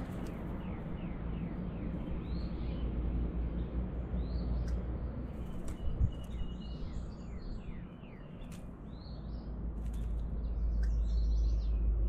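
Backyard songbirds chirping and singing: a quick run of repeated down-slurred notes about a second in, then scattered chirps and calls, over a steady low rumble.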